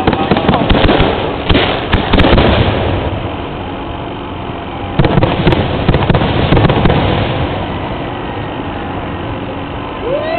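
Fireworks finale: a rapid barrage of bangs and crackling in two volleys, the first at the start lasting about three seconds, the second beginning about five seconds in, each dying away into a lower rumble.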